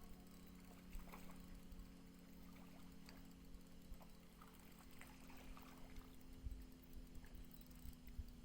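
Near silence: a faint steady hum with a few soft, scattered ticks and small water trickles.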